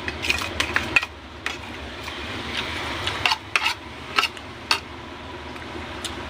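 Spoon and fork clinking against a plate while eating, in a run of about nine light, irregular clinks over the first five seconds.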